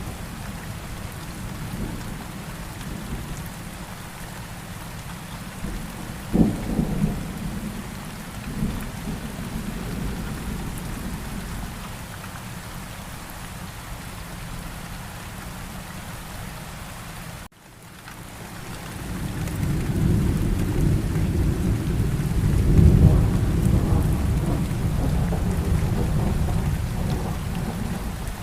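Steady rain falling, with thunder: a sharp crack and short rumble about six seconds in, then a long low rolling rumble that swells through the second half. The sound cuts out for a split second just before the long rumble.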